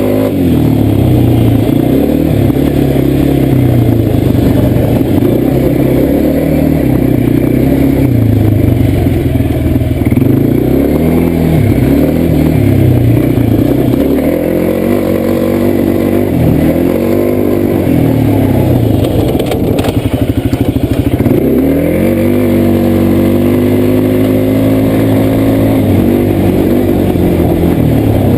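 Arctic Cat quad bike's engine running under way, its pitch rising and falling every couple of seconds as the throttle is worked, then holding steadier for a few seconds later on.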